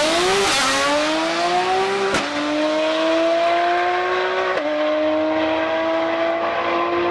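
Drag-race car's engine accelerating hard down the strip: its pitch climbs through each gear and drops sharply at gear changes about half a second, two seconds and four and a half seconds in.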